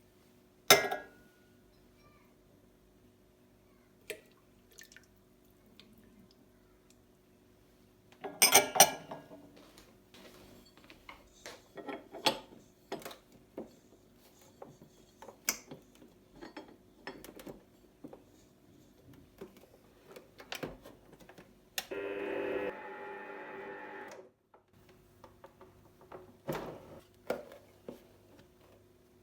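Kitchen handling sounds: scattered clinks, knocks and clatters of dishes and utensils, the loudest about a second in and around eight seconds in. A steady rushing noise lasts about two seconds near the twenty-second mark, over a faint steady hum.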